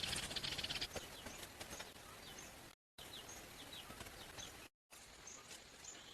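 Bird chirps and short whistles over steady outdoor background noise, with a dense, rapid pulsing in the first second. The sound cuts out completely for a moment twice.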